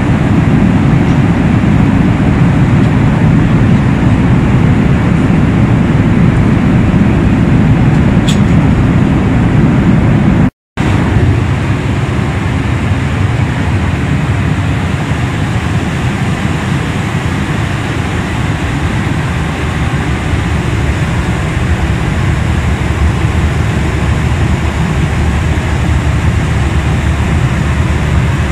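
Steady cabin noise of a Boeing 737-800 airliner in flight: engine and airflow noise, heaviest in the low end. It cuts out for a moment about ten seconds in, then goes on a little quieter.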